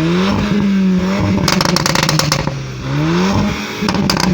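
Performance car engine being revved: the pitch rises sharply, holds high, drops about two and a half seconds in, then climbs again. There are two bursts of rapid crackling, one around the middle and one near the end.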